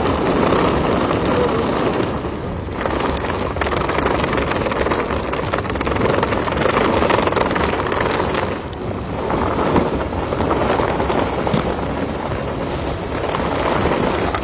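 Cyclone wind and heavy rain, a dense rushing noise that surges and eases in gusts.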